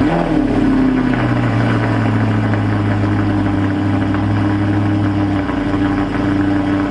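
Audi R8's 4.2-litre V8 just after a cold start: the revs fall from the start-up flare within the first second, then settle into a steady cold idle.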